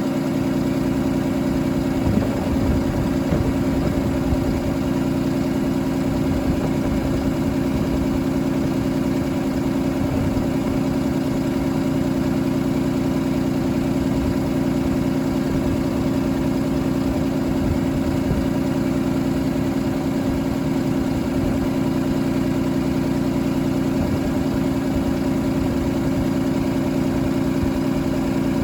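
Cummins ISB6.7 inline-six turbodiesel idling steadily at an even pitch.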